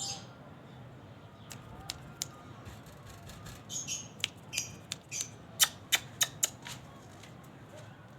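Lovebird making short, high chirps around the middle, mixed with scattered sharp clicks, then a quick run of five or six loud clicks.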